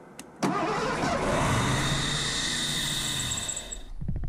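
Ford 302 V8 engine spinning over after a single click, with a steady mechanical hum and hiss for about three and a half seconds. It cuts off abruptly near the end, followed by a few quick ticks as it stops.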